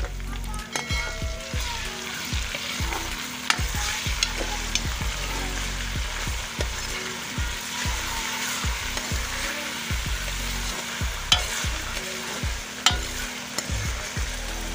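Sliced onions with garlic paste and crushed green chillies sizzling in hot oil in a steel pot, stirred with a metal spoon. The spoon scrapes and clinks against the pan several times, loudest about two-thirds of the way through.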